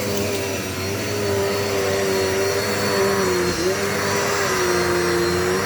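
Dirt Devil Multi-Surface vacuum cleaner running steadily, a motor whine over the rush of air, its pitch wavering slightly and dipping briefly about three and a half seconds in.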